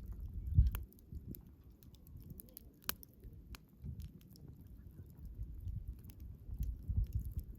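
Wood fire crackling, with irregular sharp pops, the loudest about three seconds in, over a low, uneven rumble that swells near the start and again near the end.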